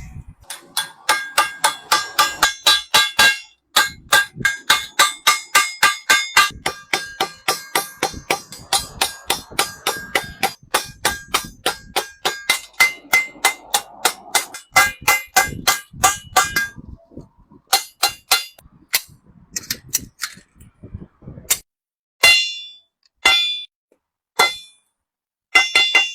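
Hand hammer striking a sheet-metal bucket in quick, even blows, about four a second, each with a metallic ring, as a reinforcing plate is fitted to the bucket's bottom against wear. The hammering stops briefly a few times and thins to a few scattered strikes near the end.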